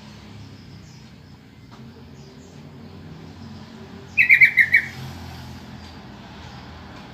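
Yellow-vented bulbul (trucukan) giving one loud, quick burst of about five chattering notes about four seconds in, a call used to lure other bulbuls to answer.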